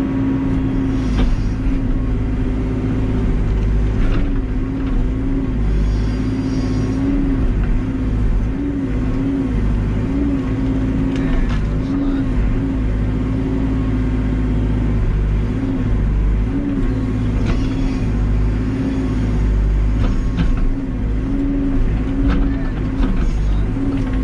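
Backhoe loader's diesel engine running under work, its pitch dipping briefly and recovering again and again as the hydraulics take load, with a few knocks from the machine.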